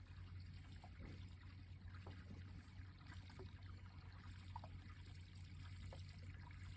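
Faint water trickling and lapping with small scattered ticks, over a low steady hum.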